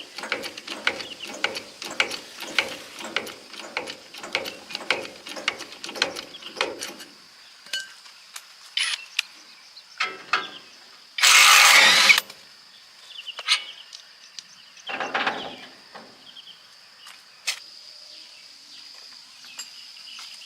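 Ratchet wrench clicking in a steady rhythm, about two to three strokes a second, stopping about seven seconds in. About eleven seconds in comes a loud rushing burst lasting about a second, and insects buzz steadily in the background.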